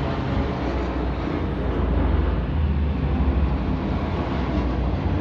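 Steady low rumble of aircraft engine noise, the four turboprops of a C-130J Super Hercules.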